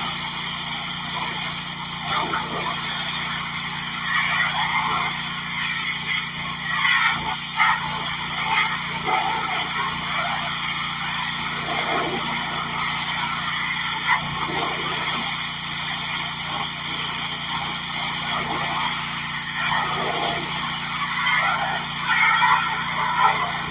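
Gas engine of a Simpson pressure washer with a Kohler engine running steadily, with the high-pressure water spray hissing against a hard surface and swelling in uneven spells as the wand moves.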